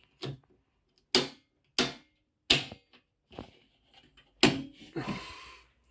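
Switches on a domestic consumer unit (main switch, RCDs and MCBs) being flicked off one after another to isolate the supply: five sharp clacks spaced irregularly, the last followed by about a second of rustling noise.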